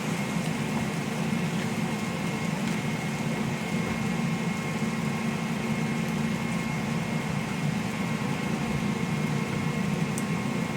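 Steady low hum of a running kitchen appliance, with a faint thin high tone over it.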